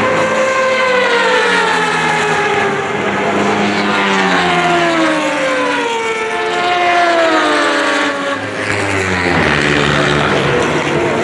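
Racing motorcycles at high revs going past on track, several engine notes overlapping, their pitch sliding down and back up as they pass. The sound dips briefly about eight seconds in before another bike's note rises.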